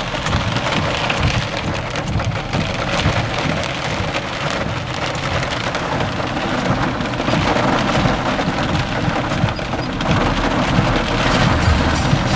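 Heavy rain falling on a car's roof and windscreen during a thunderstorm, with thunder rumbling low underneath.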